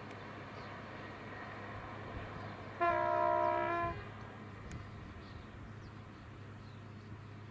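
Passenger train horn sounding one short blast of about a second, two steady notes together, over a steady low rumble.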